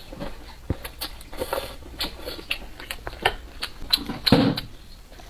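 Close-up eating sounds of a person eating instant noodles in soup: wet chewing and mouth smacks with irregular small clicks, and a louder burst about four seconds in.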